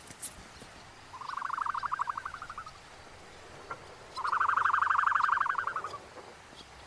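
An animal calling: two rapid trills of quick even pulses, the second longer and louder, with a short pause between them.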